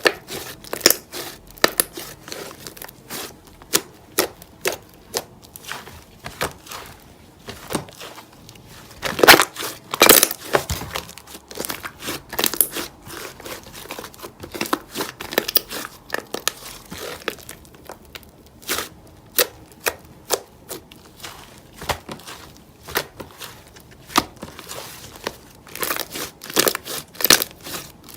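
Irregular crackling and clicking, with the loudest sharp cracks clustered about nine to ten seconds in and again near the end.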